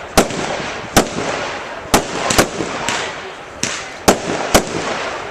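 Professional fireworks display: aerial shells bursting in a string of loud, sharp bangs, about seven in five seconds, over a continuous hiss between them.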